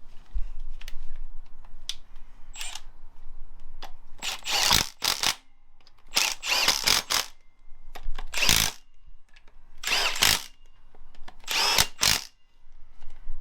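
Handheld power tool running bolts into an engine block in five short bursts, with small clicks of parts and tools between them. It is fastening an ancillary bracket or pulley to the Ford Focus ST225 engine.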